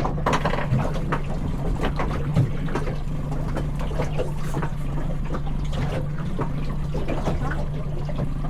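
Choppy water slapping and splashing against the hull of a small boat at anchor, in irregular short splashes, over a steady low hum.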